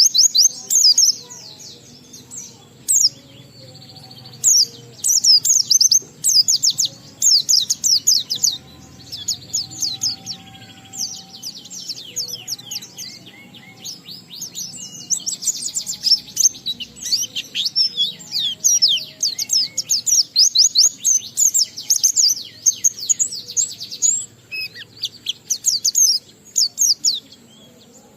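A white-eye (pleci) singing a long, continuous 'ngalas' song: rapid runs of high, quickly falling notes in bursts with short breaks between them.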